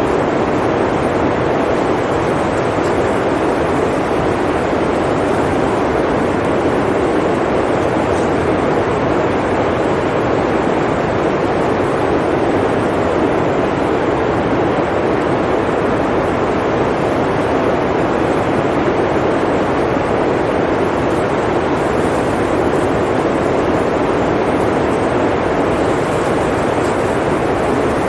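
Blizzard wind blowing as a steady, even rush without gusts or breaks.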